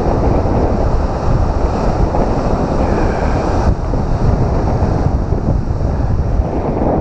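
Ocean surf breaking and washing over a rocky shore, with strong wind buffeting the microphone.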